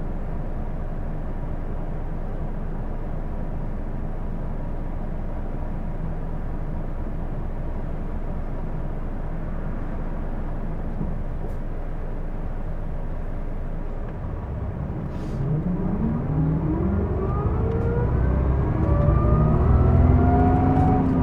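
Cabin sound of a Hino Blue Ribbon II city bus (PJ-KV234L1): steady engine and drivetrain running, then about fifteen seconds in the bus accelerates and a whine climbs in pitch and grows louder. The bus is known for an unusual running noise.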